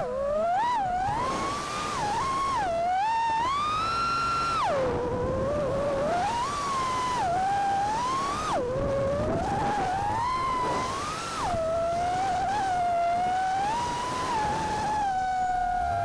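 Brushless motors and propellers of an FPV freestyle quadcopter (T-Motor F60 Pro V 1950kv motors, Gemfan 4934 props) whining in flight. The pitch swoops up and down constantly with the throttle, with one long high hold about four seconds in, over a rush of air noise.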